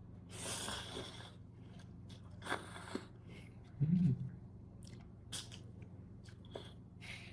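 Person eating noodles: close mouth sounds of chewing and eating, with scattered small clicks and a short noisy stretch near the start. There is a brief closed-mouth hum about four seconds in.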